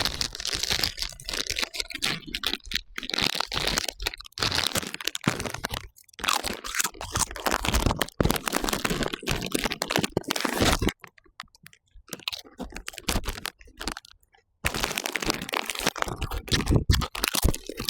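Loud, exaggerated crunching and chewing of chips close to the microphone, with crackles and crinkling. It drops to a few faint ticks for about three seconds past the middle, then starts up again.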